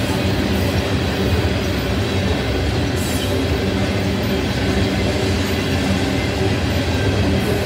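Loaded ethanol tank cars of a freight train rolling past: steel wheels on rail making a loud, steady rumble.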